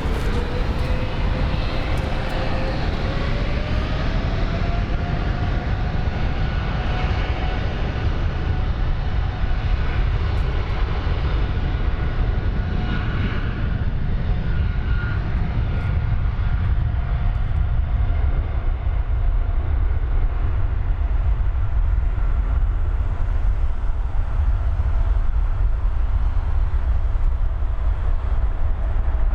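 Jet airliner engines spooling up: a whine that rises in pitch over the first few seconds and then holds steady over a constant deep rumble.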